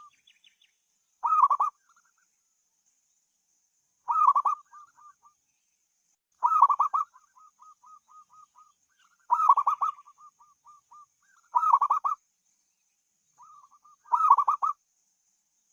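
Zebra dove (perkutut) cooing: six loud coo phrases about every two to three seconds, most followed by a run of soft quick repeated notes.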